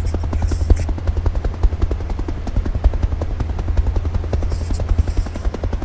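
Helicopter sound: a rapid rotor chop over a steady low drone.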